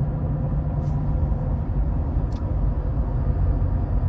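Steady low rumble of a car driving, with two faint clicks about a second and two and a half seconds in.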